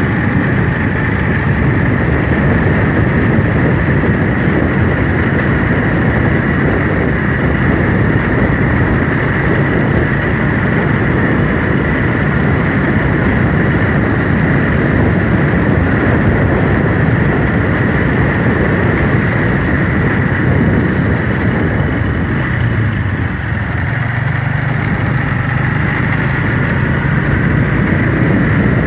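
Vehicle engine running with steady road and wind noise on the move. A low engine hum stands out more clearly during the last few seconds.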